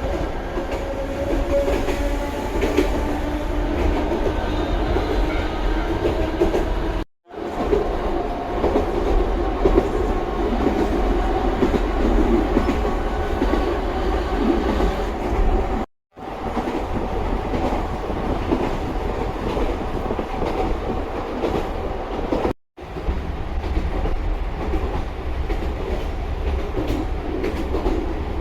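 Sangi Railway Hokusei Line narrow-gauge electric train running, its nose-suspended traction motors giving a whine that falls in pitch over the first several seconds, over a steady rumble. The sound cuts out briefly three times.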